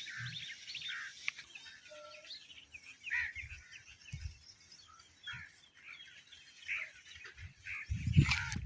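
Small birds chirping and twittering, many short quick calls one after another. Near the end, louder low thumps and rumbling cut in.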